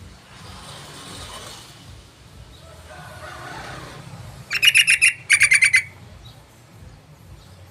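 Yellow-vented bulbul (trucukan) song: two quick bursts of about six bubbly, chattering notes each, a little past halfway, over faint background hiss.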